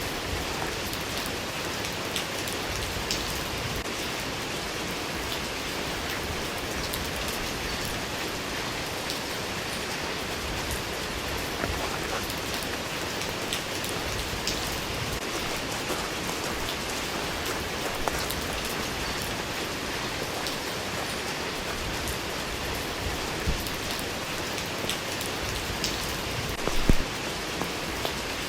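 Steady rain falling, an even hiss with scattered individual drops ticking close by. A few louder drop hits come near the end.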